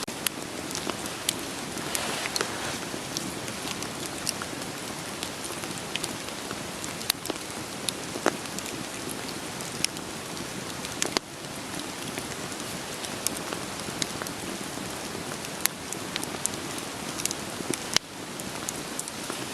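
Steady rain hiss mixed with a wood fire crackling: a log fire gives irregular sharp pops and snaps over the patter of rainfall.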